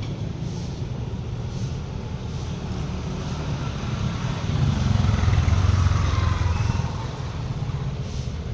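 Steady low motor rumble, with a louder passing engine sound swelling about four and a half seconds in and fading near seven seconds, its pitch falling as it goes by.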